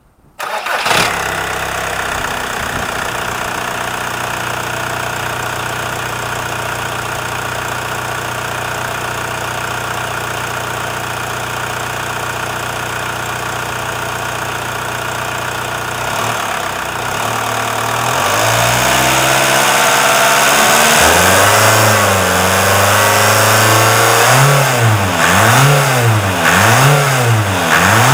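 Seat Inca's AEY 1.9 SDI four-cylinder diesel engine starting, idling steadily for about fifteen seconds, then revved up and down, with several quick throttle blips near the end.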